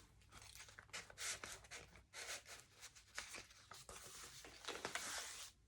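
Faint, irregular rustling and brushing of paper: pages of a handmade journal made from glued-together magazine pages being handled and turned.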